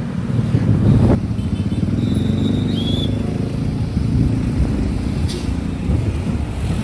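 Motor vehicle engines running steadily, with a brief high thin tone about two to three seconds in.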